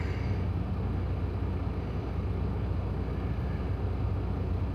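Steady low rumble of a semi truck's diesel engine running, heard from inside the cab.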